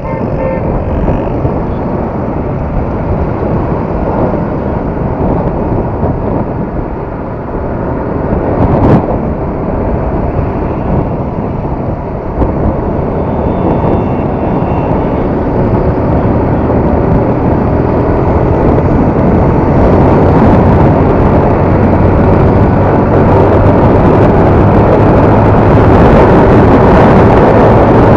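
Yamaha R15's single-cylinder engine running under way, with road and wind noise. A steady low hum comes in about halfway through, and it grows louder toward the end, with one short sharp sound about nine seconds in.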